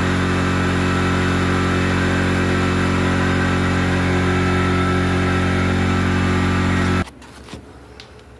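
Steady hum of a running motor made of fixed tones. It cuts off abruptly about seven seconds in, leaving a much quieter background with a few light clicks.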